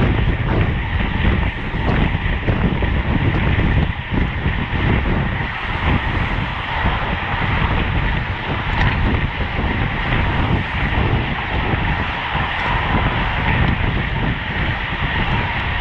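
Steady wind noise buffeting the microphone of a road bike ridden at race speed.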